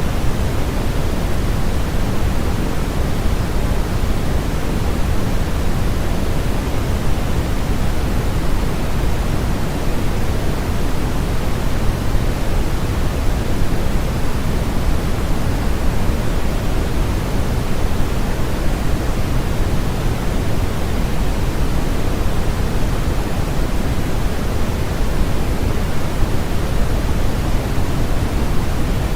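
Steady generated noise for sleep: a constant, unchanging hiss with more weight in the low end than at the top, like pink noise.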